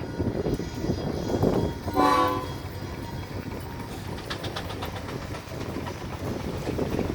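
A short, loud whistle or horn blast of about half a second, about two seconds in, over a steady low rumble of running engines.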